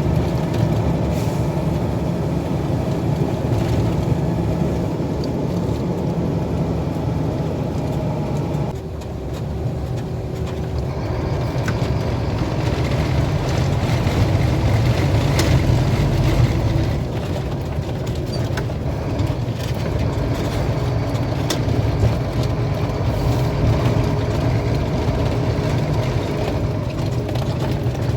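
Heavy truck driving, its engine and road noise making a steady low rumble that dips briefly about nine seconds in and then builds again.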